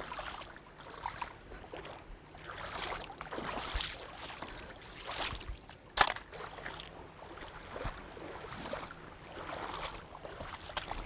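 Water sloshing and splashing in irregular swishes as someone wades through a shallow, fast-flowing stream in rubber boots, with one sharp knock about six seconds in.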